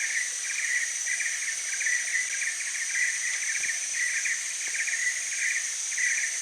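Insects calling: a pulsed trill repeating a few times a second over a steady high-pitched insect drone.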